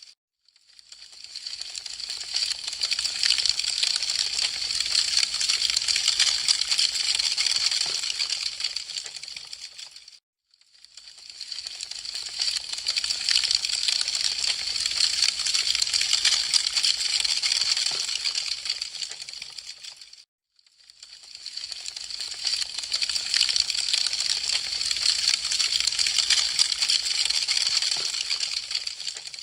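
Wood fire crackling, a dense run of small sharp pops and snaps. It comes in three swells of about ten seconds, each fading in and out, with a brief silence between them.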